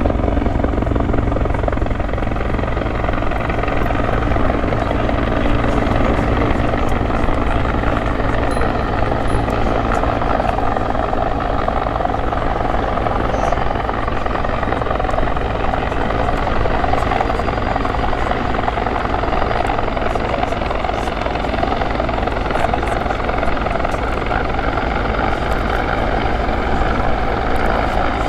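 RCAF CH-146 Griffon (Bell 412) helicopter flying past: a loud, steady beat of its four-blade main rotor mixed with the rush of its twin turboshaft engines, with no sudden changes.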